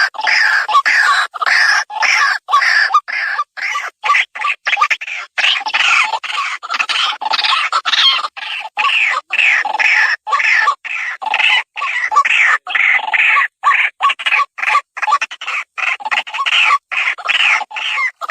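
Rail calls, harsh and rapidly repeated in quick bursts with short breaks between them, of the kind used to lure waterhens and watercocks.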